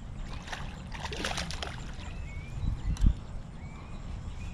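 Water splashing and sloshing at the surface as a small hooked bass is brought in, then a single low thump about three seconds in.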